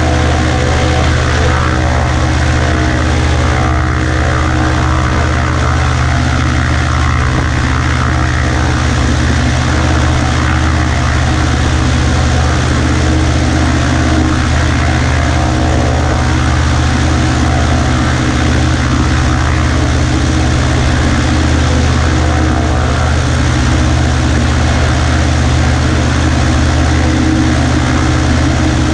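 Cessna 140A light aircraft's piston engine and propeller running steadily at a constant speed.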